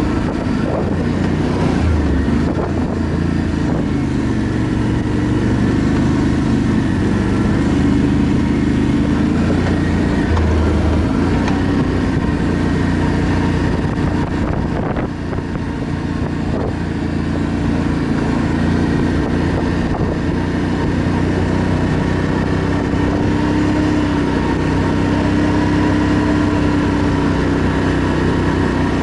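ATV engine running under way, its pitch wavering slightly, with a brief dip in loudness about halfway through.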